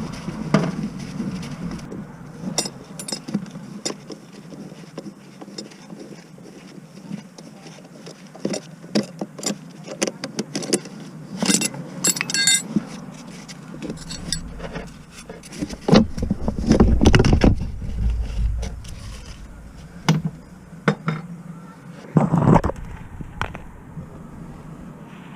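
Metal tools and parts clinking, tapping and knocking irregularly during clutch work on a car, with a cluster of bright clinks about halfway through and a few heavier knocks later.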